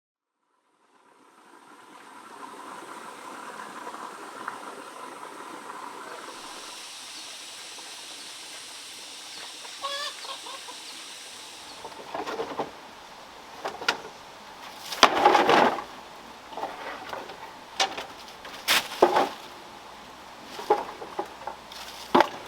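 Chickens clucking: a series of short, loud calls from about halfway on, over a steady background hiss.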